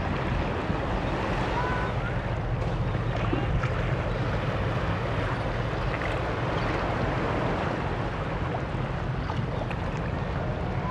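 Steady low drone of a passing ferry's engines, with wind on the microphone and water noise.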